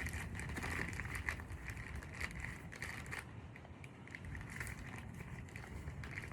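Plastic bag crinkling and rustling in irregular bursts, as a bag of clay is handled and tied shut, over a steady low hum.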